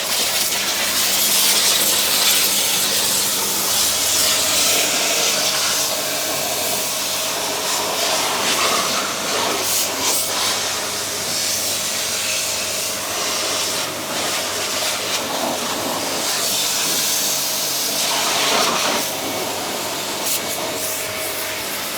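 Electric high-pressure washer running, its motor humming steadily under the loud hiss of the water jet, which swells and eases as the spray moves over the vehicle.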